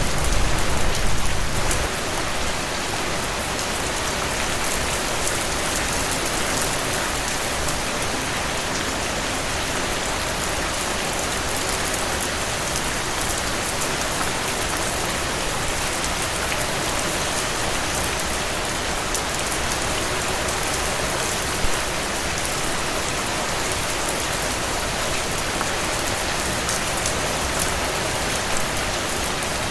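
Steady rain falling in an even hiss, with scattered drop patter. A low rumble sits under it for the first two seconds, then drops away.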